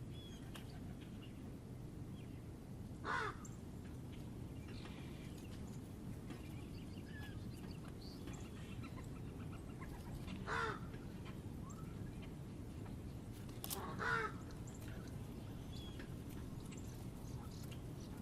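A crow cawing, one short harsh call about three seconds in and two more later on, with faint chirps from small birds in between. A steady low rumble lies under it all.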